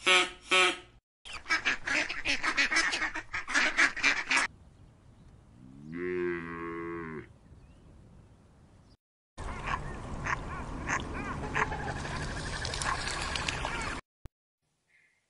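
Animal calls in several short clips joined by hard cuts: a run of rapid repeated calls, one drawn-out low pitched call about six seconds in, then a dense chorus of many overlapping calls that stops abruptly near the end.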